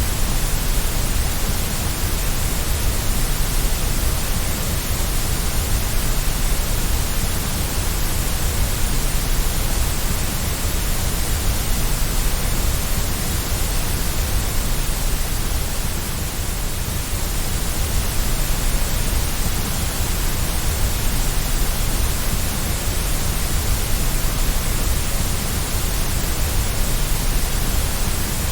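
Steady, unbroken white-noise hiss, heavier in the low end, with a slight lull about halfway through.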